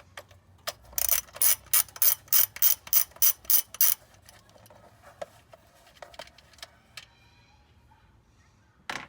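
Socket ratchet wrench clicking as the engine cover's bolts are undone: a run of about a dozen sharp clicks, three or four a second, then a few scattered clicks and one more sharp click near the end.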